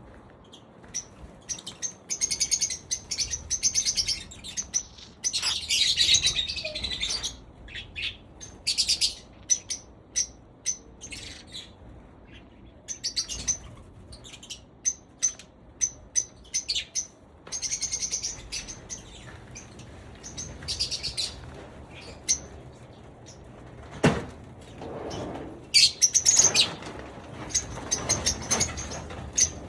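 Pet birds chirping in quick runs of short, high-pitched calls with pauses between runs; a single knock about two-thirds of the way through.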